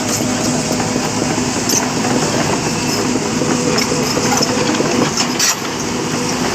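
Heavy diesel truck engine running steadily at close range, a constant pitched hum over dense mechanical rumble with a few faint clicks.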